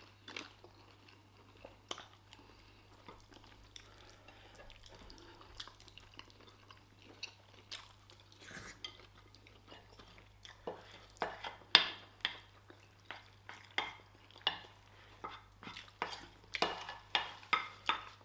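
Cutlery clinking and scraping against plates during fast eating of rice and stew: short sharp clicks, sparse at first and coming thick and fast in the second half.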